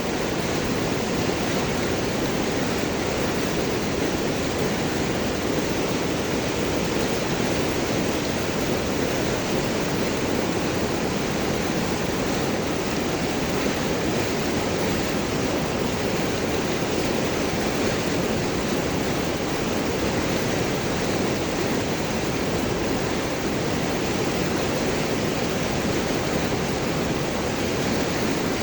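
River water rushing and gurgling over and around large rocks, a steady, unbroken flow.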